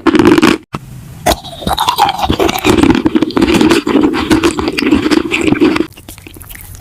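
Loud, close-miked scraping and rubbing with many sharp clicks through it. About six seconds in it gives way to quieter, crisp crunching.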